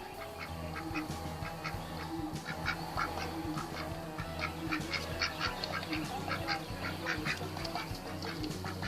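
A duck quacking over and over in short, rapid calls.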